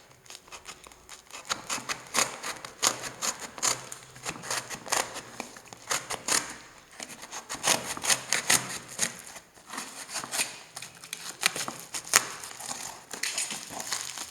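A cardboard shipping box being cut open by hand: many short, irregular cutting strokes through tape and cardboard.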